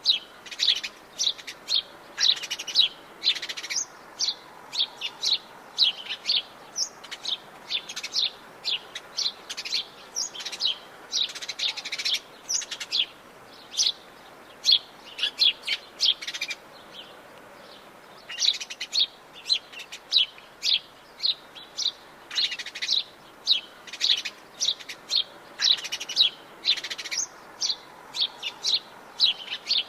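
Forest birds of the Atlantic Forest chirping and calling, many short high notes in quick, overlapping runs, with a brief lull a little past halfway.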